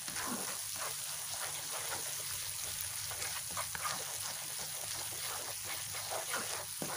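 Ground chili, shallot and garlic spice paste sizzling and crackling steadily in hot oil in a wok while a spatula stirs it, the paste being sautéed until the chilies wilt.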